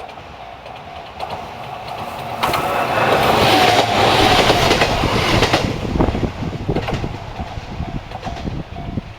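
Train passing on the line: its rumble swells about two and a half seconds in, peaks, then the wheels clack over rail joints and the sound fades.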